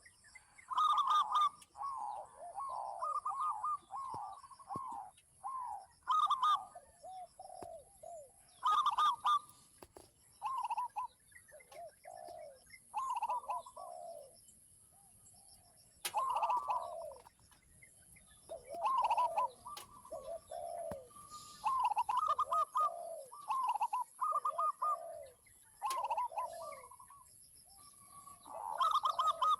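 Zebra doves and spotted doves cooing, several birds calling over one another in repeated phrases that come in bouts, over a steady high-pitched hiss.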